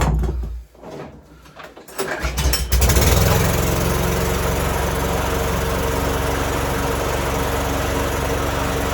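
Petrol lawnmower's 150cc Briggs & Stratton OHV engine being pull-started: it catches about two to three seconds in and then runs steadily.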